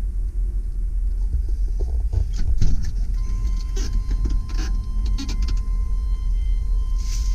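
2001 GMC Sierra 3500 HD truck engine idling with a steady low rumble, just after a trouble-free start. Scattered light clicks and knocks run over it, and a faint steady high tone comes in about three seconds in.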